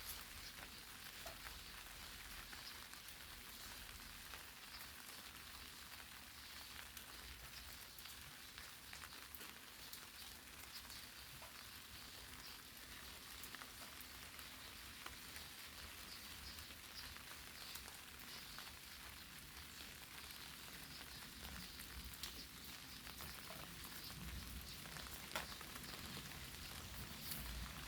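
Light rain falling steadily on eggplant leaves: a soft even hiss with scattered ticks of single drops striking the leaves, a few sharper drops near the end.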